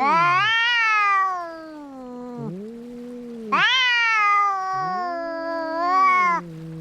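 Two cats yowling at each other in a fight standoff: one gives two long, loud, high wails, each rising then slowly falling, while the other keeps up a lower, wavering moan beneath and between them.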